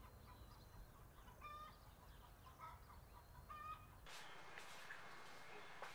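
Faint bird calls: short, flat notes repeated about once a second over a low rumble. About four seconds in, the rumble stops and a hissier background with a few scattered clicks takes over.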